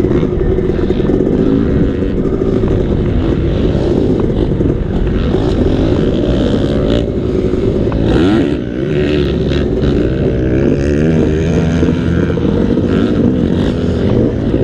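Motocross dirt bike engine running hard and revving, its pitch rising and falling; it eases off briefly about eight seconds in, then revs up again.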